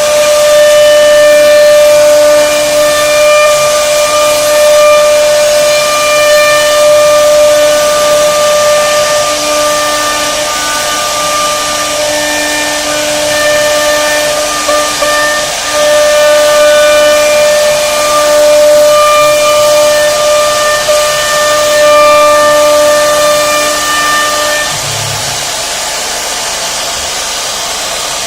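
CNC router spindle cutting a flower design into wood: a loud, steady high whine with overtones over a hiss of cutting, swelling and easing as the bit works the pattern. Near the end the whine stops, leaving a quieter hiss.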